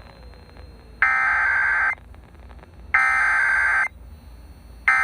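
Three bursts of warbling, beeping digital data tones, each just under a second long with about a second's gap between them. This is the SAME header that a weather radio broadcast sends ahead of a new warning message.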